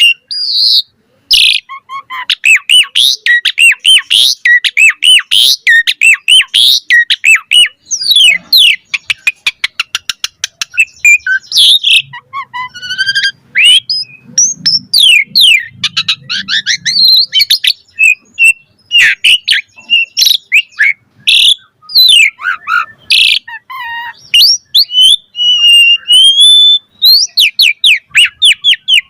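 Asian pied starling (jalak suren) singing on and on: a varied run of whistles, chirps and harsh notes, with a fast rattling trill about a third of the way in.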